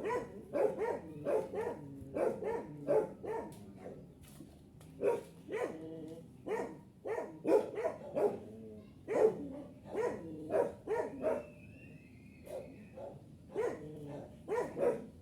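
A dog barking over and over in short barks, about one or two a second, with brief pauses.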